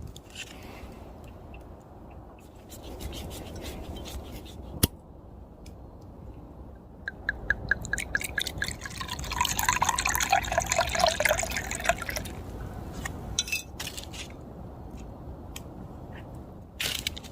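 Liquid being poured into a container, starting as quick glugs and running steadily for about three seconds near the middle. A sharp click comes a few seconds before it, and small knocks follow.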